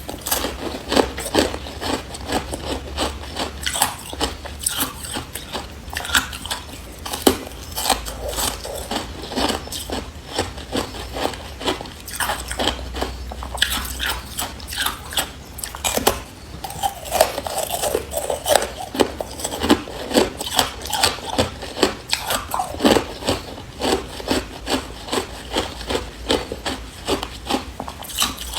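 Carbonated ice being bitten and chewed close to the microphone: a continuous run of sharp, cracking crunches, several a second.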